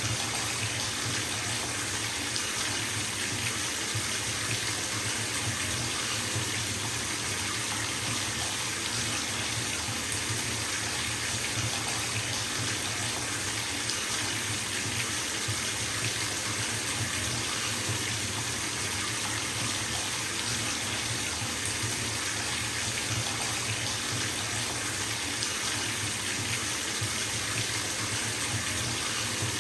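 Bathtub filling from a running tap: a steady, even rush of water falling into the tub, with no change in force.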